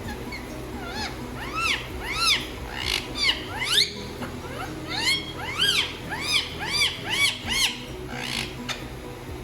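Parrot calling over and over: quick rising-and-falling squawks, about two or three a second, in two runs with a short break near the middle.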